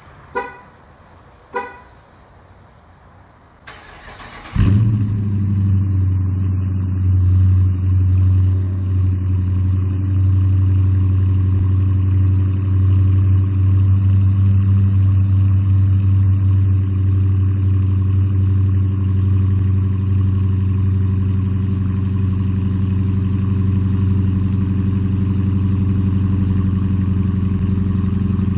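Two short horn chirps, then a brief crank, and the 2019 Dodge Challenger R/T's 5.7-litre Hemi V8 catches about four and a half seconds in on a cold start. It settles into a loud, steady fast idle through the stock exhaust, mid mufflers still fitted.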